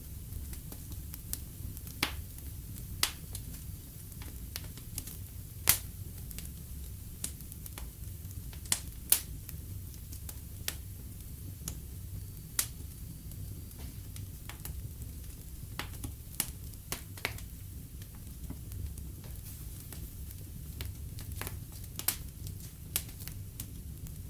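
Wood fire burning in a fireplace: a low steady rumble of the flames with irregular sharp crackles and pops of the burning logs, a few of them louder.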